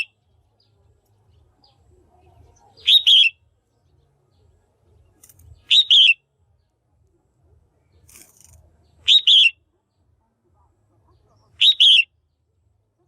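Female red-whiskered bulbul calling: four short, loud chirping phrases, repeated about every three seconds, of the kind used to stir a male bulbul or to pair birds.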